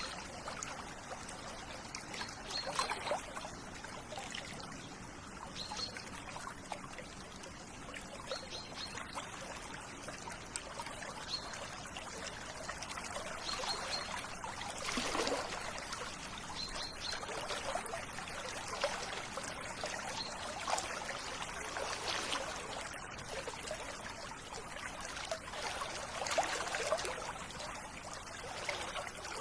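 River water running and trickling, swelling and easing in surges. A bird repeats a short high note every two to three seconds.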